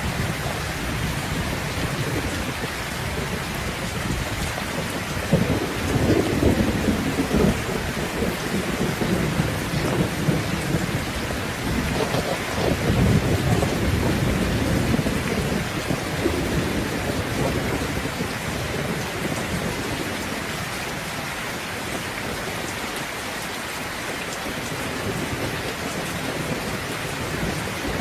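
Steady heavy rain with thunder rumbling low, swelling about five seconds in and again about twelve seconds in, then fading back under the rain.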